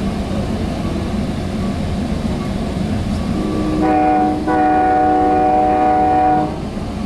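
Train horn blowing a steady chord, a shorter blast about halfway in and then a long one, over the low rumble of the moving train.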